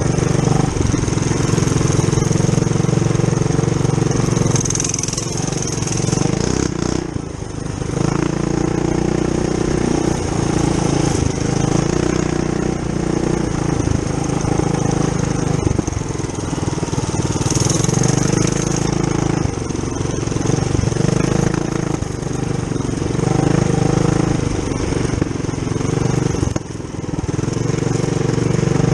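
Tillotson 212cc single-cylinder four-stroke engine, governor removed, on a Trail Master MB200-2 mini bike, running under throttle while riding. The revs rise and fall, with brief throttle-offs about seven seconds in and again near the end.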